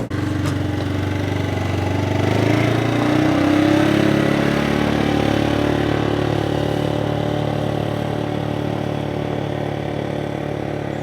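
An engine running. Its pitch rises about two to four seconds in, then holds steady as the sound slowly grows quieter.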